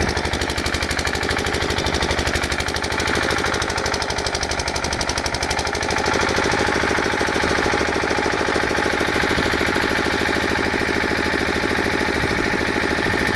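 Electric arc welding on a steel gate: a loud, steady, fast crackling buzz.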